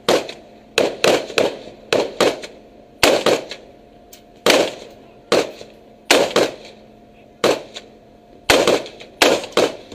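Guns firing aimed shots, singly and in quick pairs at irregular intervals, roughly one to three a second, each a sharp crack with a short ringing tail.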